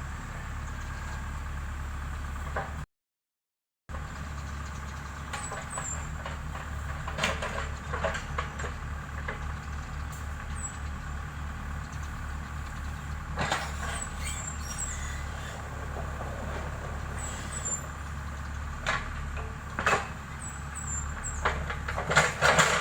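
Heavy road-work equipment's diesel engine running steadily, with scattered clanks, rattles and squeaks. The sound drops out to silence for about a second near the start.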